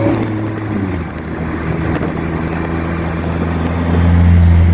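Turbocharged Chevy engine of a Vanderhall three-wheeler running under way. Its pitch drops about a second in, then it pulls steadily and grows louder near the end.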